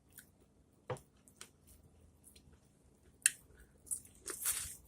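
Close-up eating sounds: scattered wet mouth clicks and smacks of chewing, with a short hissing sound near the end.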